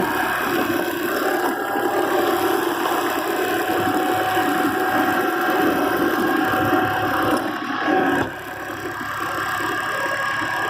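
Kubota diesel tractor engine running steadily with a steady whine over it, briefly louder and then dropping about eight seconds in.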